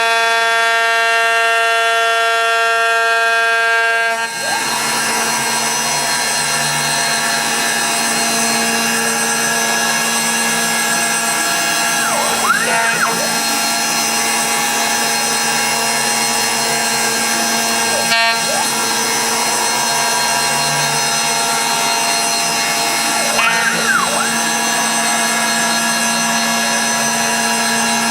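CNC router running a finish pass in hard karri wood: a steady, high spindle whine with several fixed tones. The tone shifts about four seconds in, and brief rising-and-falling whines come a few times as the axis motors move.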